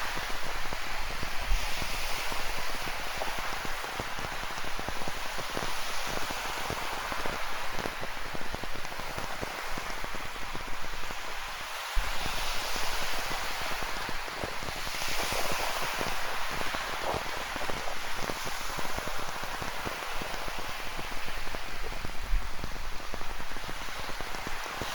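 Rain falling steadily on the shore, a dense patter of close drops, with ocean surf swelling and washing in behind it every few seconds. The sound dips briefly about halfway through and comes back abruptly.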